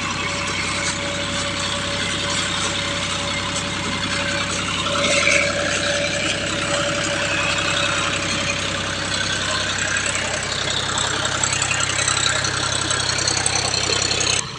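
Tractor engine running steadily under load, with a steady whine, as the tractor, bogged in paddy-field mud, tries to drive up onto wooden logs placed in its cage wheels. It gets a little louder about five seconds in.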